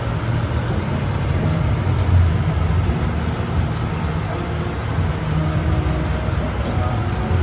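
Steady low mechanical hum, like an engine or generator running.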